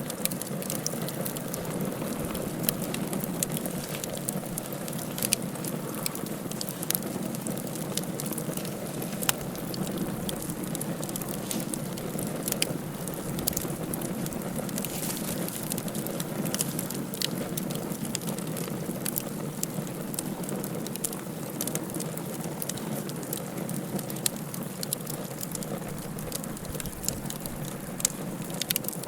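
Wood fire burning in a fireplace: a steady low rushing with frequent irregular sharp crackles and pops.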